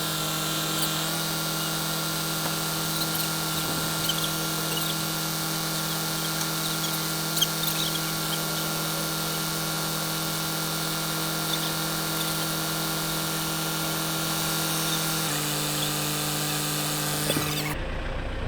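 Handheld electric power tool running steadily on metal, its motor holding one pitch with a high hiss over it, shifting slightly about fifteen seconds in and cutting off abruptly near the end.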